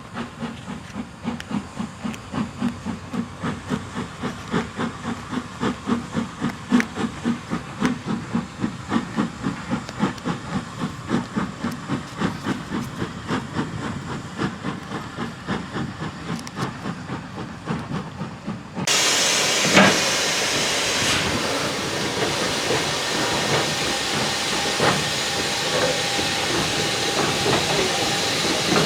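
Steam locomotive working, its exhaust beating in a regular rhythm of about three beats a second. About two-thirds of the way in the sound changes abruptly to a loud, steady hiss of steam, with a single sharp knock just after the change.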